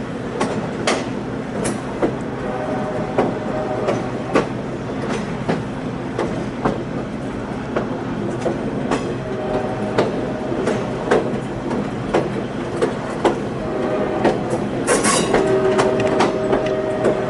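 Train riding over the rails: a steady rumble with irregular clicks and knocks from the wheels over rail joints, and a squealing wheel tone for a couple of seconds near the end.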